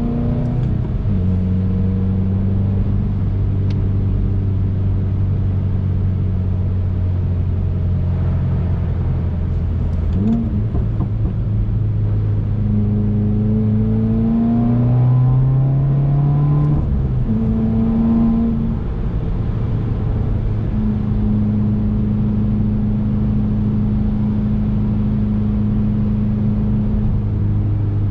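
2019 Subaru WRX's turbocharged flat-four engine heard while driving, with road noise underneath. Its note holds steady for a while, rises in pitch several times with drops between the rises, then settles into a steady cruise near the end.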